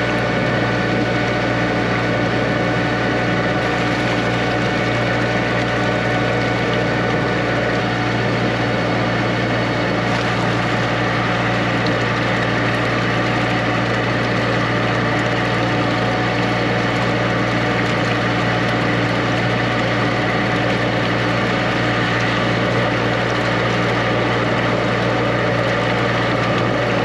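High-pressure drain jetter's engine and pump running steadily, a constant low hum without change.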